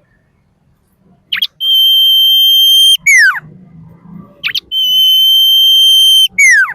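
Common iora singing the same phrase twice. Each phrase is a brief sharp note, then a long, steady high whistle held for about a second and a half, ending in a quick downward slur.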